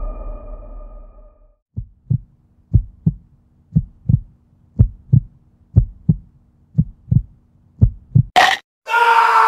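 Heartbeat sound effect: a low double thump, lub-dub, about once a second, following the ringing tail of a heavy hit. Near the end a short sharp noise cuts it off and music begins.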